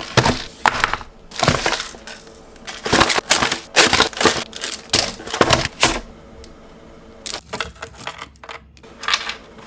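Repeated crunching and crinkling of something being handled: a dense run of loud scrunches for about six seconds, then a few lighter clicks and rustles.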